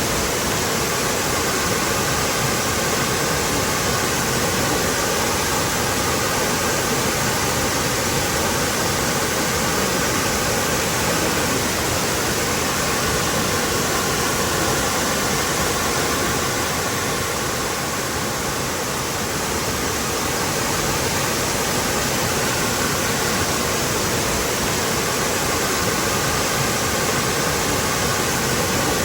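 Waterfall pouring steadily, a dense even rush of water.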